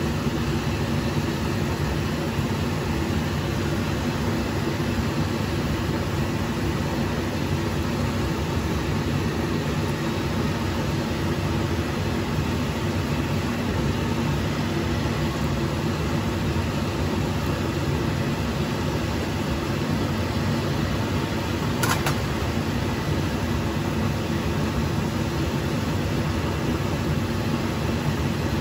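Whole chicken frying in hot oil in a wok: a steady sizzle over a steady low hum, with one sharp tap about three-quarters of the way through.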